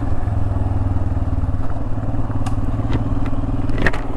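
Royal Enfield Himalayan's single-cylinder engine running at steady low revs, with a few short clacks, the sharpest near the end.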